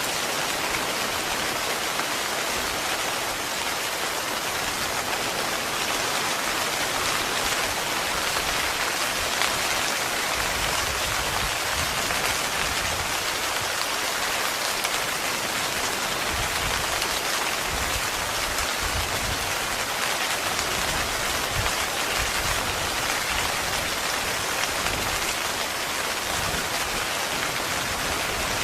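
Steady heavy rain pattering on a tent.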